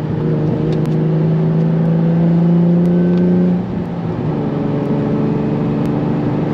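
Single-turbo Nissan 350Z's 3.5-litre V6, heard from inside the cabin, droning at a steady pitch while cruising. The note dips briefly about three and a half seconds in, then carries on steady.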